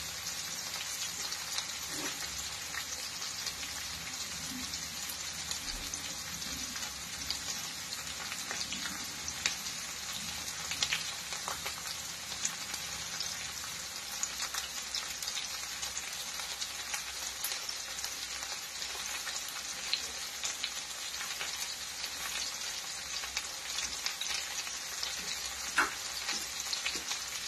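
Hot oil sizzling steadily as vegetables fry, a fine high hiss with scattered small pops and crackles.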